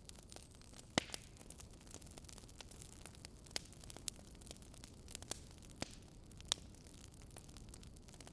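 Wood fire crackling: irregular sharp pops and snaps over a low steady hiss, the loudest pop about a second in.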